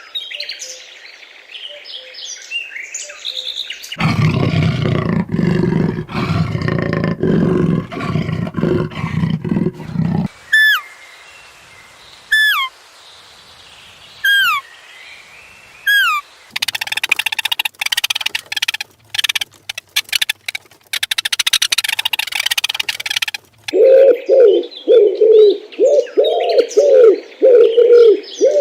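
A run of different animal calls: bird chirps, then a loud, low roar-like call lasting about six seconds, then a series of short falling whistled calls about every two seconds, then a harsh rapid buzzing or chattering stretch, and near the end a quick series of low calls.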